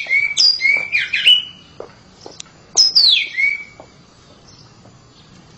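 Oriental magpie-robin (kacer) singing loud, clear whistled phrases that sweep down and back up in pitch, a quick run in the first second and one more falling phrase about three seconds in, then a pause in the song.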